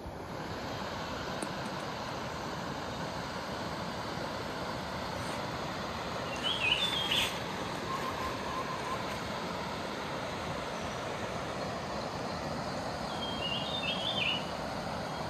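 Steady rush of a flowing mountain creek. A bird calls twice over it with short, quick chirpy phrases, about halfway through and again near the end.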